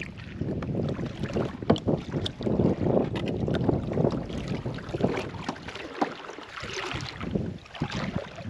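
A kayak moving on shallow water: water sloshing and splashing, with scattered small knocks, and wind buffeting the microphone.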